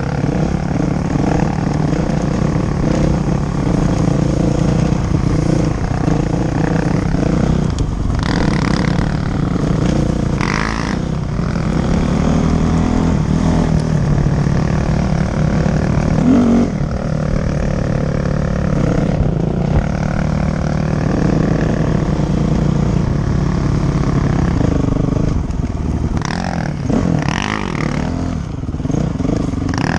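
Dirt bike engine running under way, its pitch rising and falling as the throttle opens and closes, with some rattle and rushing noise now and then.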